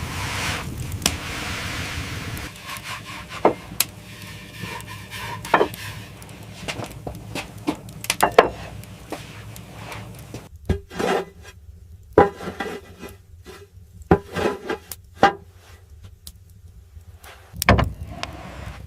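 Irregular knocks, clicks and scraping, like hard objects being handled and rubbed together, after a steady rushing noise in the first couple of seconds.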